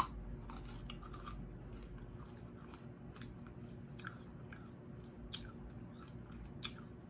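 Close-miked eating of Cherry Heads, a hard cherry candy: scattered crunches and mouth clicks as it is chewed, with a sharp click at the very start.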